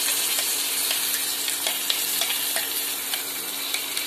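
Spinach paste sizzling as it goes into hot oil and fried onions in a pan: a steady frying hiss with scattered small crackles and pops.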